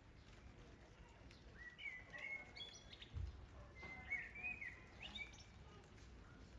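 A bird chirping in two quick bouts of short, gliding notes over a faint steady hiss of outdoor ambience, with a soft low thump about halfway through.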